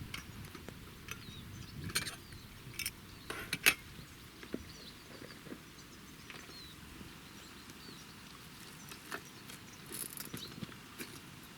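Scattered light clicks and knocks of small objects being handled, the sharpest two a little over three seconds in and a few more near the end.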